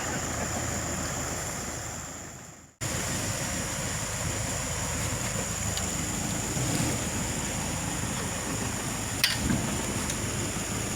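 Steady running noise of an off-road vehicle on a rough plantation track, an even rushing noise with a thin high whine, with a few light knocks. The sound fades away about two seconds in and cuts straight back just under three seconds in.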